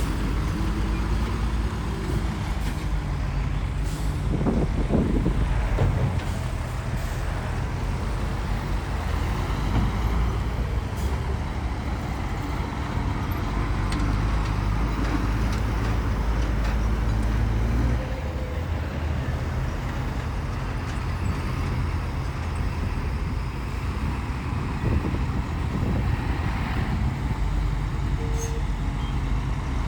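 Heavy diesel earthmoving machinery running under load: the steady drone of bulldozer and dump truck engines, with a brief rise and fall in engine pitch about five seconds in and a drop in the low drone a little past halfway.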